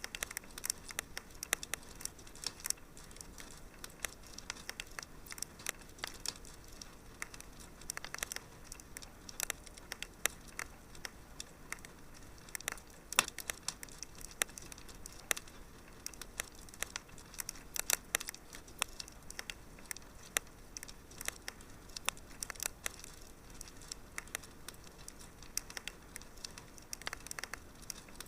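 Wood fire crackling in a fireplace: frequent, irregular sharp pops and snaps over a faint steady hiss, with one louder pop about thirteen seconds in.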